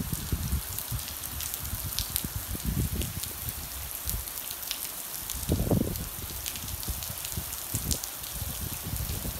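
Steady rain falling, with many scattered sharp drips, and irregular low rumbles, the strongest about five and a half seconds in.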